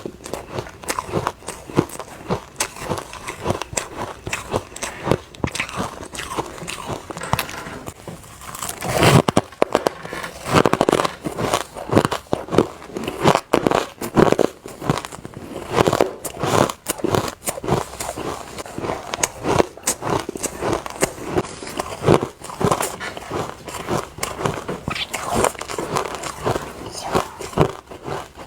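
Close-miked bites and chewing of refrozen soft ice: a dense run of sandy, crumbly crunches, getting louder about nine seconds in.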